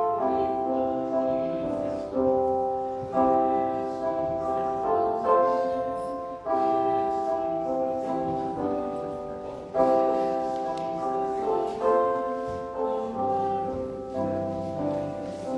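Piano playing a slow passage of chords, each struck chord dying away before the next.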